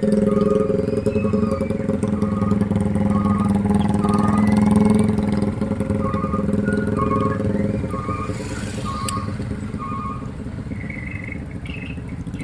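Motorcycle engine running steadily under way, loudest in the first half and easing off over the second half as the throttle comes back.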